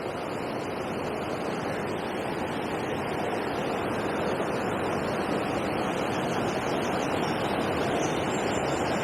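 Steady rushing noise of flowing water, growing slowly louder.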